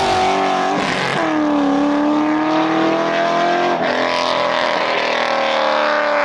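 A car engine revving hard at high rpm. Its pitch drops sharply about a second in and again near four seconds, then climbs or holds again, as with shifts or lifts off the throttle.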